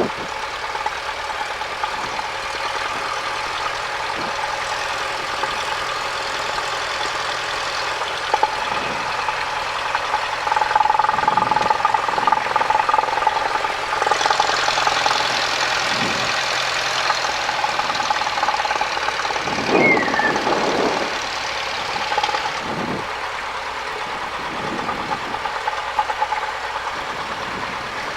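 Cessna 172's engine running at low power during taxi, heard from inside the cockpit as a steady drone, a little louder for a few seconds near the middle. A few short knocks and clicks sound over it.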